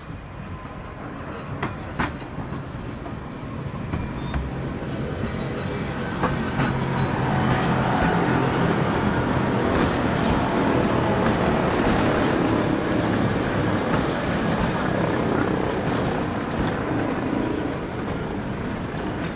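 Wengernalpbahn electric rack railcar no. 252 running past at close range. Its running noise grows over the first several seconds, stays loud through the middle and eases off near the end, with a few sharp clicks from the wheels on the track.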